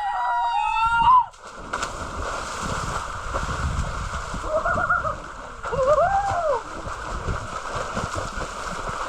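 Water splashing and sloshing, with a few short rising-and-falling calls over it. It opens with a loud pitched call that cuts off suddenly about a second in.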